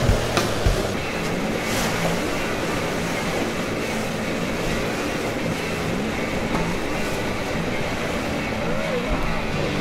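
Steady rush of wind and water on a sailing yacht under way, with a low steady hum underneath and a few knocks near the start.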